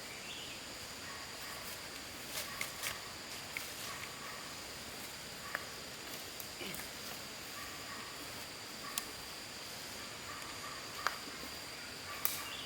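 Outdoor ambience with a steady, high-pitched insect drone, broken by a handful of short clicks and knocks.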